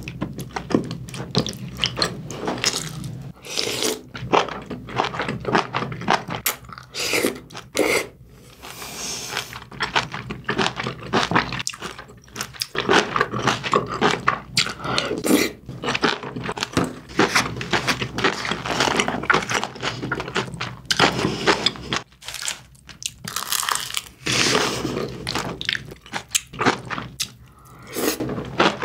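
A person chewing and biting mouthfuls of braised kimchi stew with pork, tofu and rice, with crunchy, crackly, wet mouth sounds throughout.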